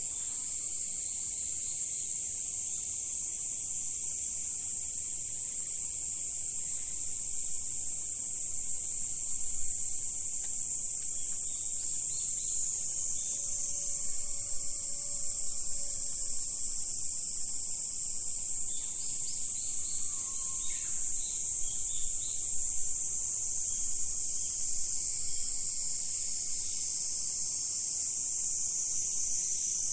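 Steady high-pitched chorus of insects, unbroken throughout, with a few faint bird calls around the middle, including a short falling note.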